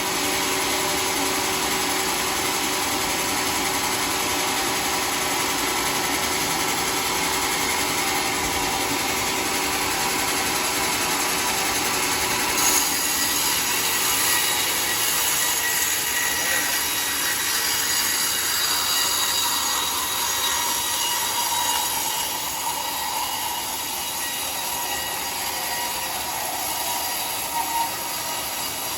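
Sawmill saw blade cutting through a mahogany log, a continuous loud shrill screech over machine noise. About halfway through it turns brighter and shriller.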